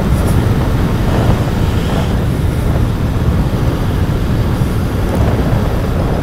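Royal Enfield Continental GT 650's 648 cc parallel-twin engine running steadily through its stock exhaust while riding, with wind and road noise mixed in.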